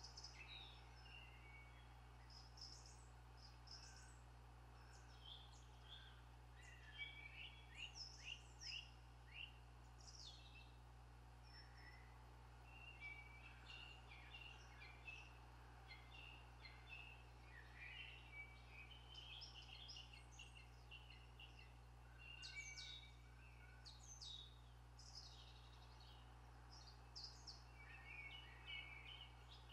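Faint birdsong: small birds chirping and twittering in quick short notes, scattered throughout, over a steady low hum.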